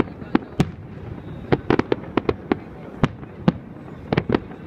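Fireworks shells bursting overhead: an irregular string of sharp bangs, several coming in quick clusters.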